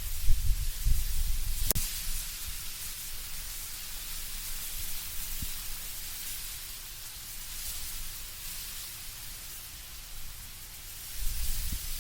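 Wind in autumn trees with leaves rustling in a steady hiss. Gusts are stronger at the start and again near the end, easing in between, with a single sharp click about two seconds in.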